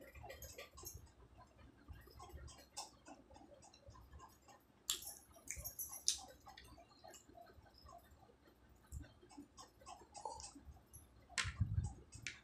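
Close-up mouth sounds of someone chewing a samosa: faint, irregular soft clicks and smacks, with a few sharper clicks about five and six seconds in. A low knock near the end.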